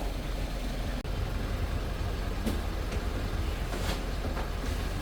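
Steady low rumble of a running vehicle engine, cut off for an instant about a second in.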